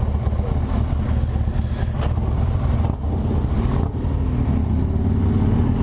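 BMW R1200GS Adventure's boxer-twin engine running steadily under way, a low even drone, with a haze of wind and road rush over the microphone.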